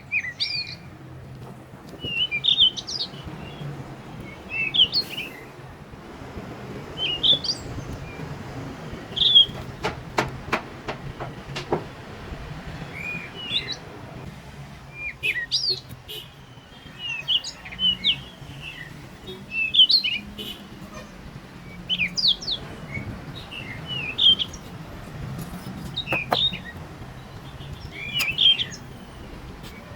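A small bird calling repeatedly, short high chirps every second or two, over a low steady hum. A quick run of clicks comes about ten seconds in.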